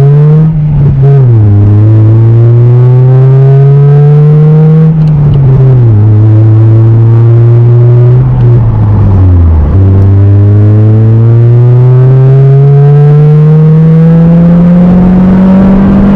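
2005 Acura RSX's 2.0-litre inline-four accelerating under load through the gears of its manual gearbox: the engine note climbs slowly, drops at each of three upshifts, then climbs again.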